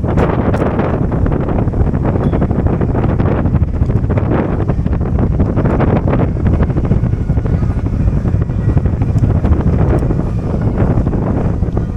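Wind buffeting the microphone: a loud, low rumble that swells and drops irregularly in gusts.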